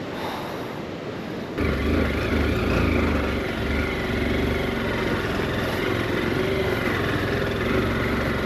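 Motorcycle engine running as the bike rides a rough dirt road, with a steady hum and noise; the sound jumps suddenly louder about a second and a half in.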